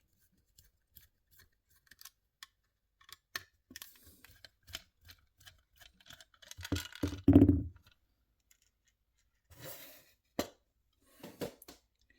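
Small clicks, taps and scrapes of a diecast model car being worked loose from its plastic display base, with a louder clunk and low rumble about seven seconds in.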